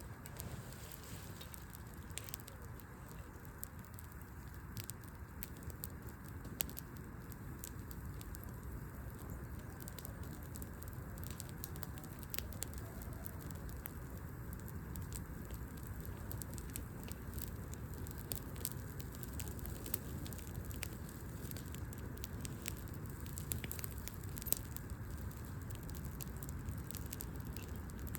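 Open wood fire burning: a steady low rumble with frequent sharp crackles and pops from the burning logs, irregular and scattered all through.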